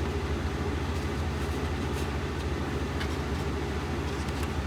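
Steady low mechanical hum of background machinery, with a few faint clicks as parts are clamped in place.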